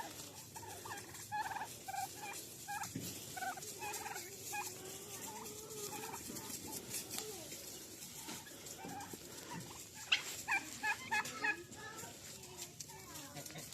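Domestic turkeys calling with short repeated notes, then a rapid gobble of about six notes about ten seconds in, the loudest sound.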